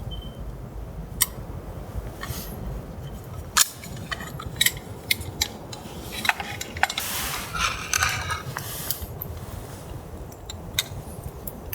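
Metal camp cookware and utensils being handled: scattered clinks and clicks with a few short scrapes, busiest in the middle.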